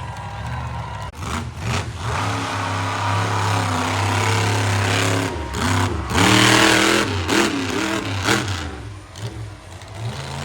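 Monster truck engine running hard and revving, with its pitch climbing in a loud surge about six seconds in before it drops back.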